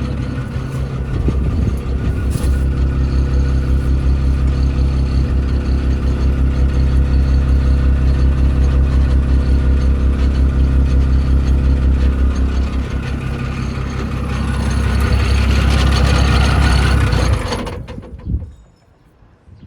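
Isuzu 6BD1 six-cylinder diesel of a Hitachi UH06-5 hydraulic excavator running with a steady pulsing beat. It grows louder and brighter a little past halfway, then is shut off near the end and runs down to quiet within about a second.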